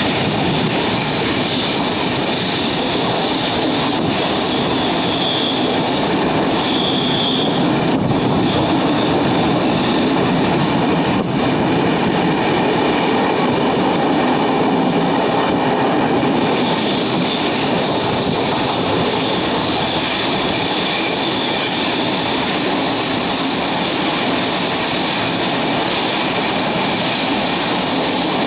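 Express passenger train running along the track: a steady rumble and rattle of coach wheels on the rails. A high wheel squeal comes in briefly a few seconds in and returns from a little past the middle.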